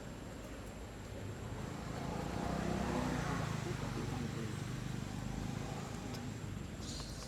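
A vehicle passing by: a low rumble that swells to a peak about three seconds in, then slowly fades.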